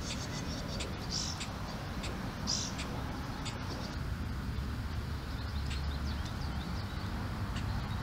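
Outdoor park ambience: small birds chirping, with two short high calls in the first three seconds and scattered brief chirps after, over a steady low rumble.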